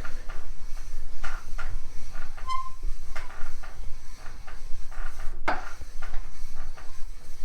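Barrel lap being worked back and forth inside a Harley-Davidson K-Model main bearing race: a rhythmic rasp of lap on the race with a short squeak about two and a half seconds in, a sign that the lapping compound is drying out. A sharp knock a little after five seconds in is the loudest sound.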